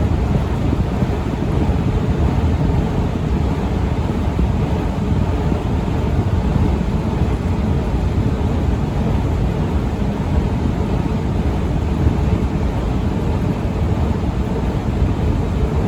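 Steady low rumble of a long Otis escalator running, with a rushing, wind-like noise over it and no distinct knocks or changes.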